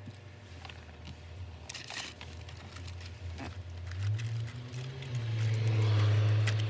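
Eating curly fries from a paper carton: small crunches and clicks of chewing and the paper rustling, over a steady low hum inside a car. The hum swells and is loudest about five seconds in.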